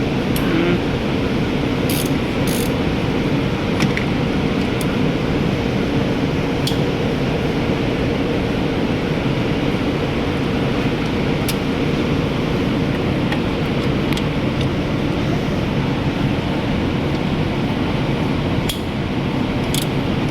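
Steady mechanical background noise, with a few sharp metallic clicks and taps of hand tools at irregular moments as parts are worked off an engine.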